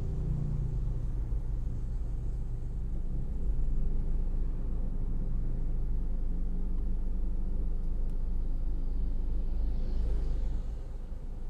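BTS Skytrain electric train running, a steady low rumble that drops in level near the end.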